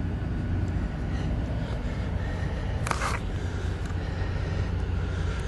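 A steady low rumble, with a brief sharp noise about three seconds in.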